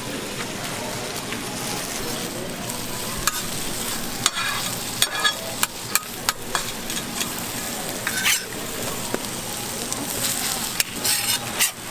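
Food sizzling and frying on a hot griddle, with sharp clicks and scrapes joining the steady sizzle from about four seconds in.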